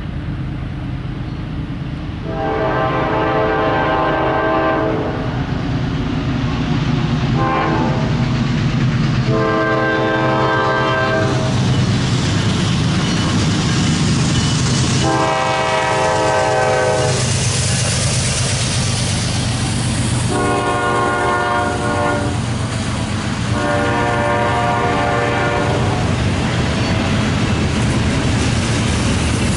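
Norfolk Southern freight train's diesel locomotives approaching and passing, sounding a multi-note horn six times (one short blast among longer ones) over a steady low engine rumble. Near the end come the rumble and clatter of double-stack container cars rolling by.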